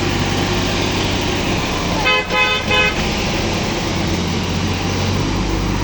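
Tractor engine running steadily, with a horn giving three short toots about two seconds in.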